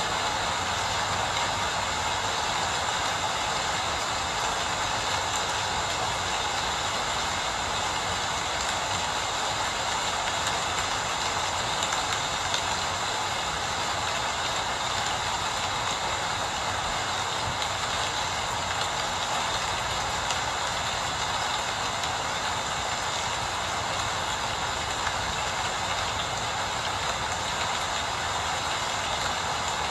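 Steady, constant rain falling, an even hiss with no distinct drops or other events standing out.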